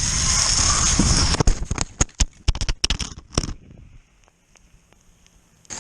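Cross-country skis hissing steadily down a snowy track. From about a second and a half in comes a cluster of sharp, irregular crunches and knocks in the snow, and by about four seconds in it has gone quiet.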